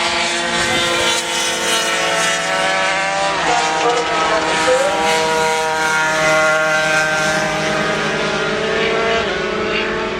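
Several racing motorcycle engines running hard together at high revs, their pitches overlapping, with a few brief dips and rises in pitch partway through.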